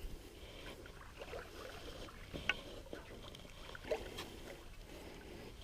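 Paddle strokes moving a small boat across pond water: faint splashing and dripping, with a few short sharp knocks or drips.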